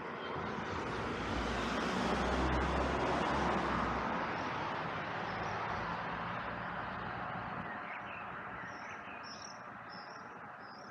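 A road vehicle passing by: its noise and low rumble swell to a peak a few seconds in, then slowly fade away. Near the end a small bird gives four short, high chirps.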